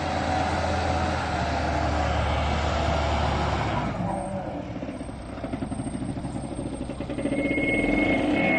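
A heavy engine running: a steady low drone for about the first three and a half seconds, then a quieter, evenly pulsing run that builds up again near the end.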